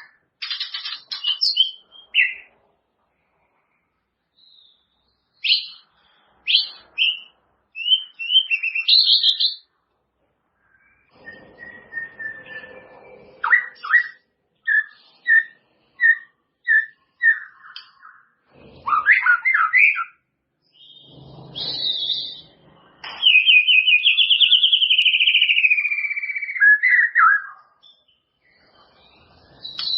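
White-rumped shama singing: a varied run of clear whistled phrases and chirps separated by short pauses, with a string of short clipped notes about two a second in the middle and a long warbling trill that slides down in pitch near the end.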